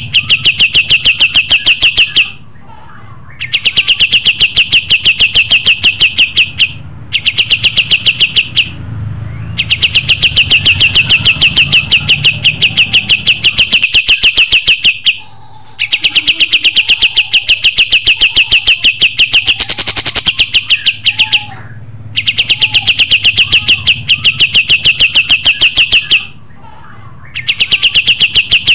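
Kapas tembak songbird singing its 'tembak' song: long, rapid machine-gun runs of sharp high chirps, about ten a second, each run lasting several seconds with brief pauses between. A faint low hum runs underneath.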